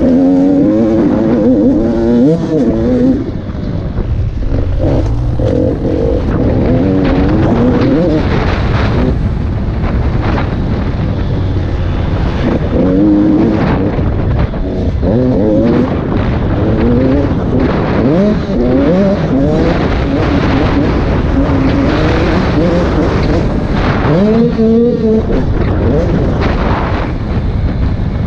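KTM SX 85 single-cylinder two-stroke motocross engine, ridden hard round a track. It revs up and backs off again and again as the rider accelerates, shifts and shuts off, over a constant rush of noise.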